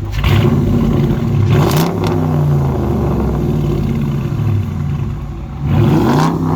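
2019 Dodge Challenger R/T's 5.7-litre Hemi V8 through a straight-through exhaust: rear mufflers and resonators deleted, Dynomax race mufflers in the middle. It revs up and back down twice, once right at the start and again near the end, idling between, pretty loud.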